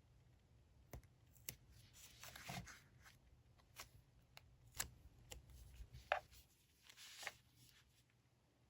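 Quiet desk handling during diary decorating: paper rustling twice, with about half a dozen small clicks and taps in between.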